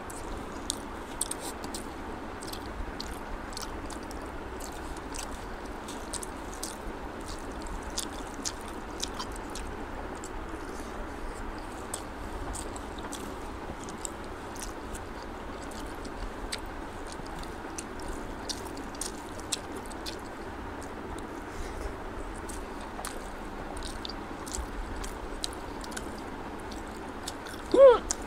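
Close-up chewing and wet mouth sounds of someone eating rice and egg curry by hand, with frequent small clicks and smacks. Near the end there is one brief, loud vocal sound from the eater.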